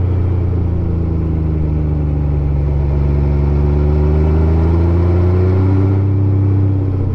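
Honda Gold Wing GL1500's flat-six engine running steadily under way. Its pitch sags a little, then climbs as the throttle is rolled on, and drops back near the end.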